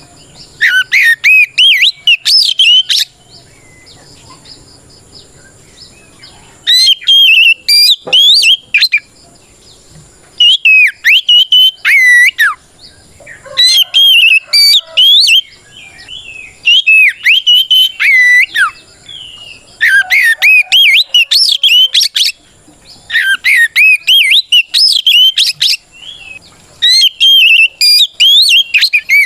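Oriental magpie-robin (kacer) singing its loud, full challenging song, calling out a rival. It comes in about eight bursts of fast, swooping whistled phrases, each two to three seconds long, with short pauses between them.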